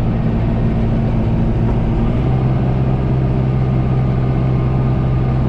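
Tractor engine running steadily while working a hay baler, its note shifting lower about two seconds in.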